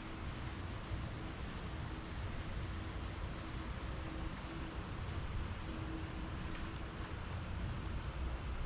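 Steady city ambience: a low hum of distant traffic, with faint insect chirping repeating about three times a second.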